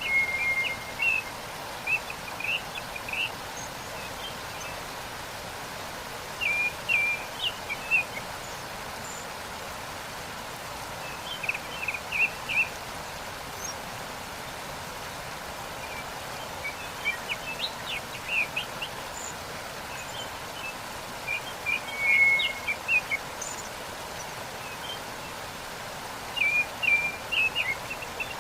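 Steady rush of falling water from a waterfall, with songbirds chirping in short bursts of rapid notes every few seconds.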